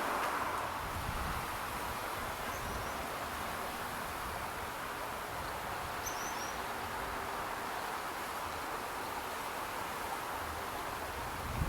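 Steady outdoor background hiss with a few faint, high, short bird chirps, about two and a half and six seconds in.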